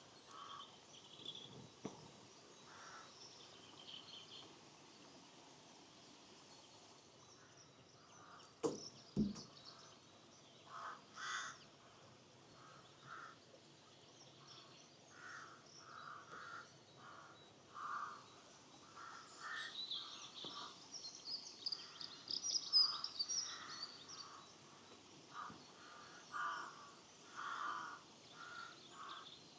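Birds calling: repeated short, harsh crow-like caws, with small songbirds chirping higher up, busiest in the second half. A single knock comes about nine seconds in.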